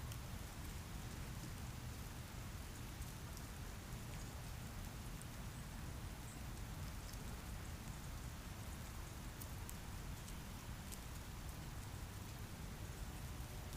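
Steady outdoor ambient noise with a low rumble and hiss, and scattered faint ticks throughout.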